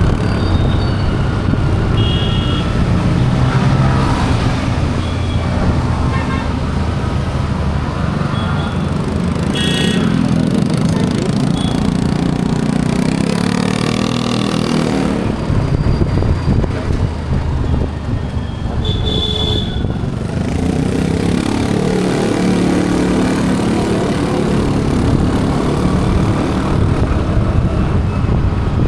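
Road traffic: vehicle engines running steadily with car horns tooting briefly three times, about two seconds in, near the middle and about two-thirds of the way through.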